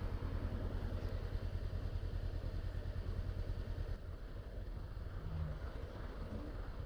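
Honda CBR500R's parallel-twin engine idling with a steady low pulsing rumble, a little quieter from about four seconds in.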